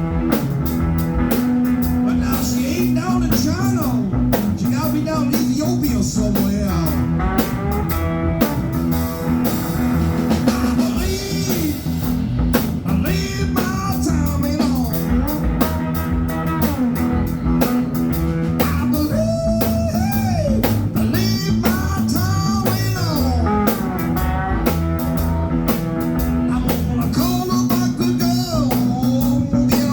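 Live blues played on an amplified cigar box guitar, its lead notes sliding up and down over a steady low accompaniment.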